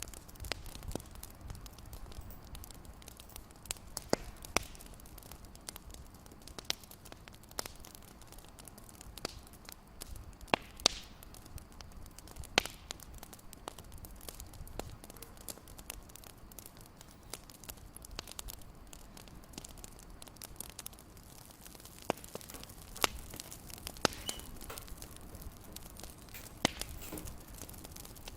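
Fireplace crackling: irregular sharp pops and snaps, a few a second, over a low steady rumble.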